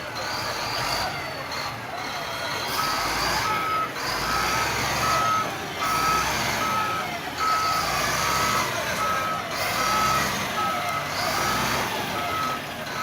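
A heavy machine's reverse alarm beeping at an even pace, about one and a half beeps a second, starting about three seconds in, over a diesel engine running under load. The machine is probably the XCMG wheel loader backing up.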